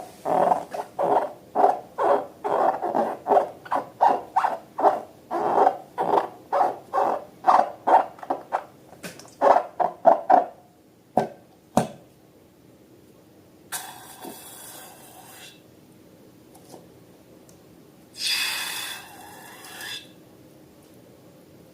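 Rubber balloons and slime being squeezed and worked by hand, giving a rhythmic run of short squeaky squelches, two or three a second, for about ten seconds. After a pause with two small clicks come two brighter bursts of hissing or rustling, each lasting about a second and a half.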